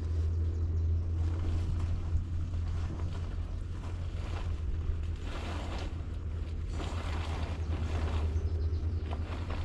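Wind buffeting the microphone as a steady low rumble, with a few brief rustling or scraping surges in the second half.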